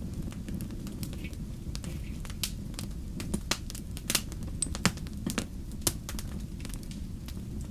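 Wood campfire crackling, with irregular sharp pops over a steady low rumble of burning; a few louder pops in the middle.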